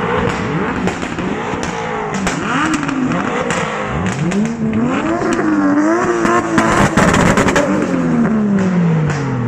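A car engine revved hard several times. Its pitch climbs steeply about four seconds in, is held, then drops back near the end.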